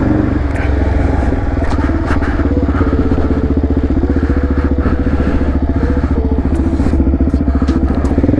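Suzuki DR-Z400SM's single-cylinder four-stroke engine running steadily at low revs with an even, fast pulsing note as the bike creeps along a muddy trail, with scattered sharp clicks over it.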